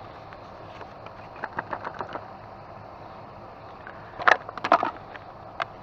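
Rummaging through discarded items in a dumpster: a scatter of light clicks and knocks from boxes and small objects being handled, with a louder clatter of several knocks about four to five seconds in.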